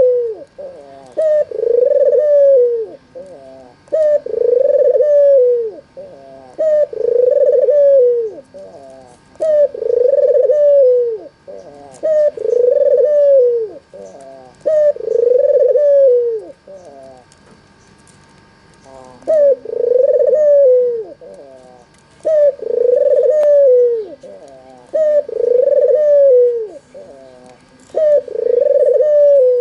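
A white red-eyed albino puter (ringneck dove) cooing over and over: each call is a few short notes and then a long coo that rises and falls, repeating about every two and a half seconds, with one short break in the middle.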